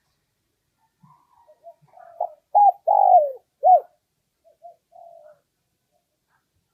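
A spotted dove sings one cooing phrase. It starts with a few soft notes, rises to four loud, falling coos, and then trails off in quieter notes. This is the decoy call used to draw wild male spotted doves in to fight.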